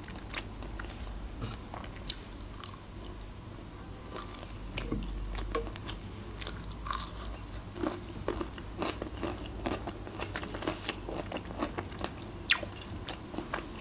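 Close-up chewing and biting: moist mouth clicks and smacks from eating manti dumplings and a pickled cucumber, with a few crisp crunches; the sharpest snaps come about two seconds in and near the end.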